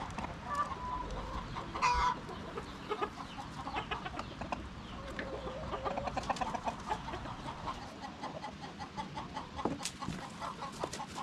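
Chickens clucking, a run of many short clucks, with a louder brief call about two seconds in.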